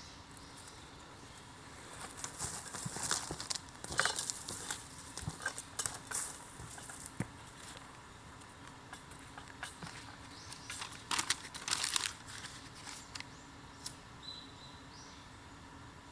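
Dry bamboo and leaves crackling and rustling in irregular bursts of sharp snaps, with a brief high whistle near the end.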